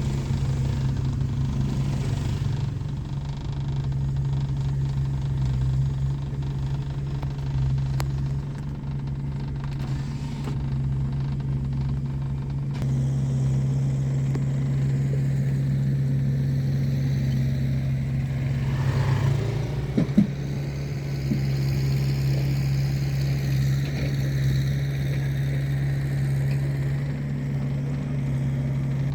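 An engine running steadily with a low, even hum, and a short sharp knock about twenty seconds in.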